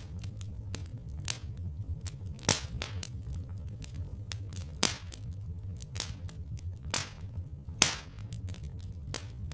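Wood fire crackling, with irregular sharp pops, a few of them loud, over a steady low rumble.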